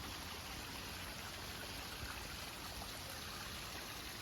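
Steady rush of running water from a stream swollen by several days of rain.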